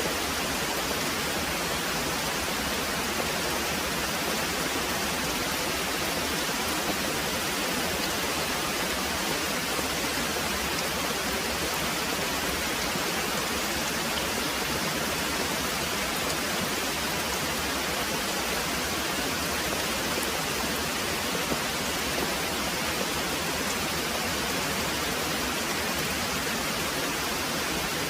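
Very heavy rain pouring steadily, an even hiss with no breaks or thunderclaps.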